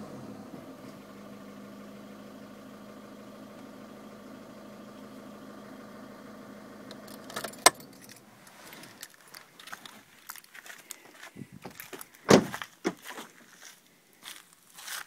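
2011 VW Polo TDI diesel engine idling steadily, then switched off with a sharp click about halfway through. Keys jangle and rattle afterwards, with one loud thud near the end, likely the car door.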